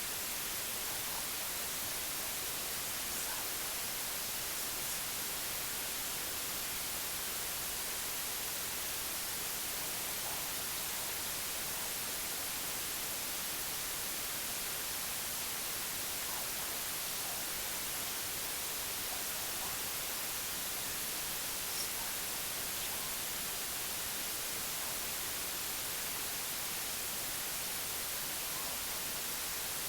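Steady white noise: an even, unbroken hiss, brightest in the high range.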